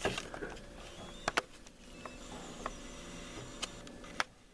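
Several sharp clicks and light taps of parts being handled inside an opened microwave oven, over a faint steady hum.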